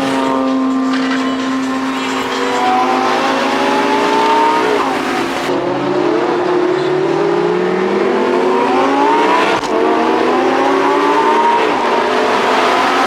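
Sports car engine running steadily, then accelerating hard through the gears: its pitch climbs, falls back sharply at an upshift about five seconds in and again near ten seconds, and climbs once more.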